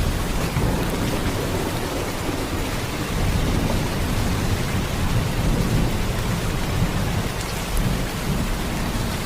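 Heavy rain falling in a steady, unbroken downpour, a dense hiss over a deep low rumble.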